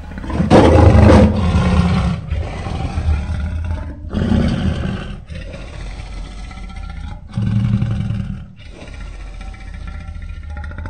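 Lion roaring: a series of loud, deep calls, the first and longest about half a second in, then further calls about every three to four seconds.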